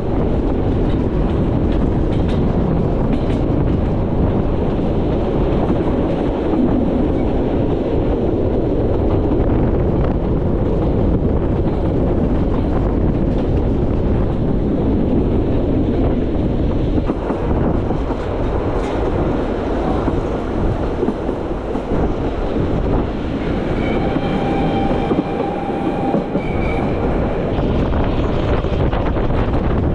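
Metre-gauge train running along the track: a steady rumble with wheel clatter on the rails. A few seconds from the end a brief high-pitched tone rings over it.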